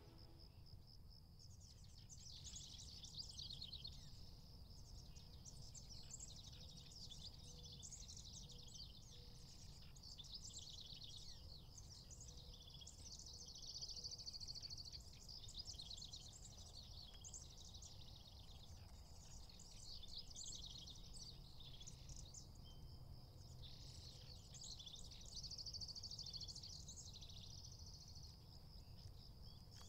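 Faint chorus of songbirds chirping continuously, over a low outdoor rumble of field ambience.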